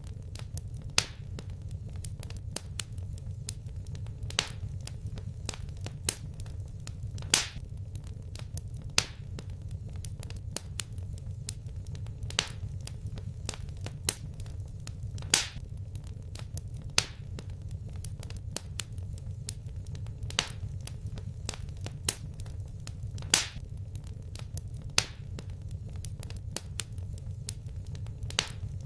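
Fireplace fire crackling: sharp pops and snaps at irregular intervals, a louder one every couple of seconds, over a steady low rumble.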